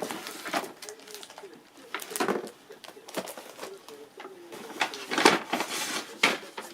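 Crinkling, rustling handling noises come several times, with a soft, wavering, cooing call repeating low in the background.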